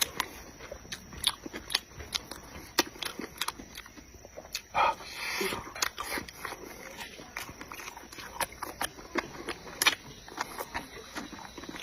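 Close-miked chewing with wet mouth clicks and lip smacks, irregular and continuous, with a short louder mouth sound about five seconds in.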